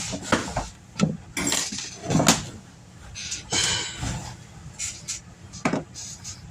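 Kitchen clatter: dishes and utensils knocking and clinking a number of separate times, with a few short scraping or rustling sounds in between.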